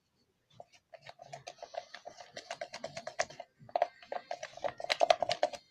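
Slime being stirred and squished, giving a rapid run of small sticky clicks and squelches from about a second in, loudest near the end.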